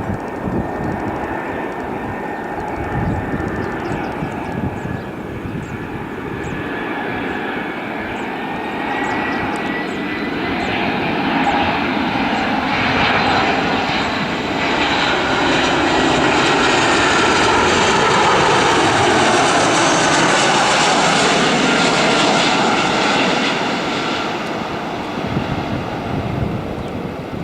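Airbus A320 jet airliner on landing approach: its engine noise grows louder, peaks for several seconds as it passes, then eases off. A high engine whine sits on top and slides down in pitch as the aircraft goes by.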